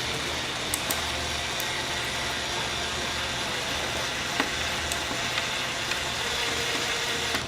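A small electric motor runs steadily with a faint high whine and a low hum, and stops at the end.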